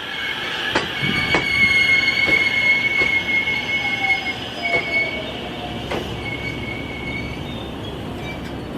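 Train wheels squealing on the rails as a train moves through a station: a high, steady squeal in several tones with a lower tone sliding downward, and a few sharp clicks. The squeal eases off about halfway through.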